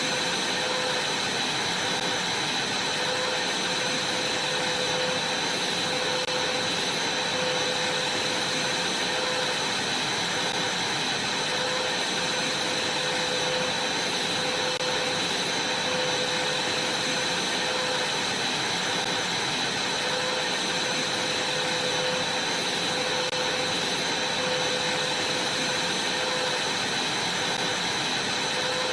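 Vacuum cleaner running steadily: an even rushing hiss with steady whining tones, one high and one lower, that never change.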